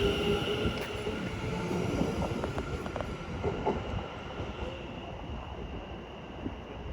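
Greater Anglia Class 720 electric multiple unit pulling out of the station, its running noise fading steadily as it moves away. A few clicks from the wheels are heard in the first four seconds, over a faint steady high tone.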